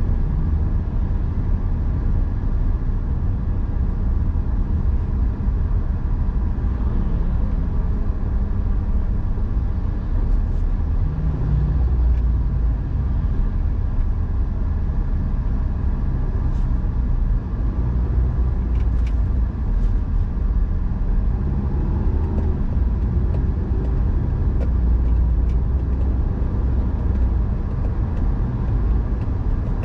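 A car driving: a steady low rumble of engine and road noise, with a few faint ticks around the middle.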